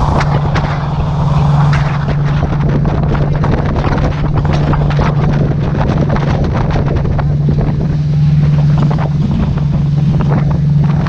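Tour boat's engine running with a steady low drone, and wind buffeting the microphone in constant crackling gusts.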